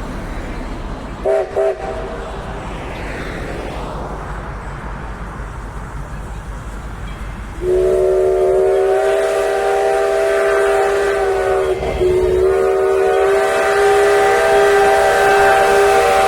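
A passing train sounds its warning signal: two short toots, then a long, loud multi-tone blast that dips briefly and starts again. The steady rumble of the train running lies underneath.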